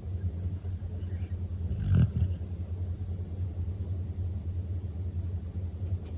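Akita dog snoring, a steady low rumble with one louder snore about two seconds in.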